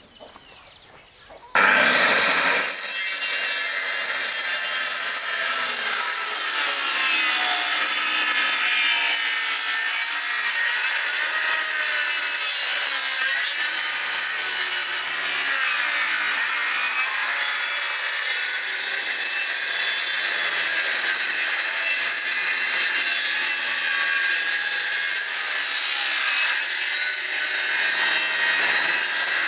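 A power tool cutting into wood without a break, starting about a second and a half in, loud and steady with no back-and-forth stroke rhythm.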